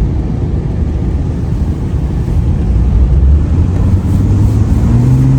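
2002 Ford AU Falcon engine pulling on the road, a steady low note that rises in pitch near the end as the car accelerates.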